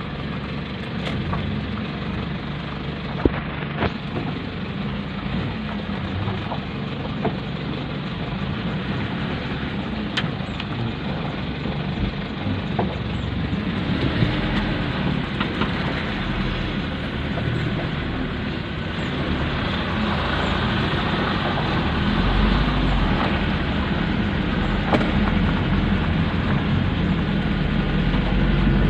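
Small dump truck's engine running steadily, with scattered knocks and rattles; the rumble grows louder and deeper over the last third.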